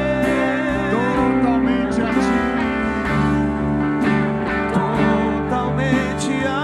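Live worship music: a band playing slow sustained chords with guitar.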